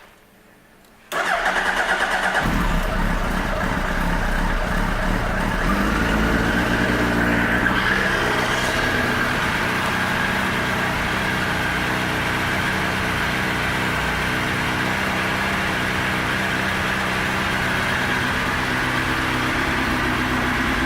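2007 Suzuki Hayabusa's inline-four, fitted with a full Yoshimura exhaust system, starting suddenly about a second in and then idling steadily, with a small shift in pitch around eight seconds in.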